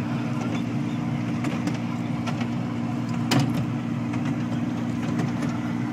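Miniature ride-on train running steadily, its motor giving a constant low drone, with scattered light clicks and one sharper knock about three seconds in.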